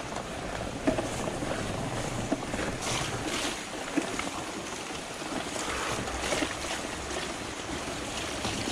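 Fat bike riding along a muddy dirt trail: a steady rush of wind on the microphone and tyre noise, with scattered knocks and rattles from the bike over bumps.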